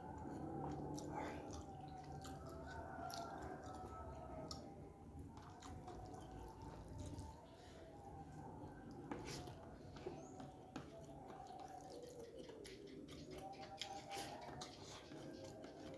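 A person eating rice with the fingers close to the microphone: wet chewing, lip smacks and scattered sticky clicks of the mouth and fingers.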